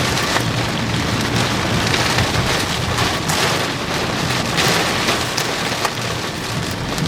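Heavy rain and hail hitting the roof and windshield of a moving vehicle, heard from inside the cab as a dense steady patter with many sharp strikes, over a steady low road hum.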